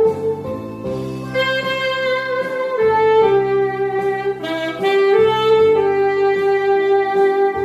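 Saxophone playing a melody of held notes over an instrumental backing track.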